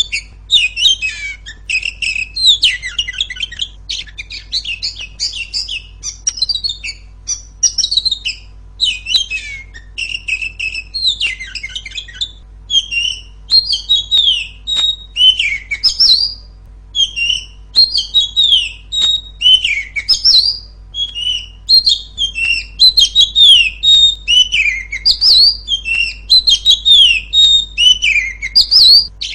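Female Oriental magpie-robin (kacer) singing a loud, ringing song: fast, varied phrases of whistles and chirps, many of them quick falling notes, following one another with barely a pause.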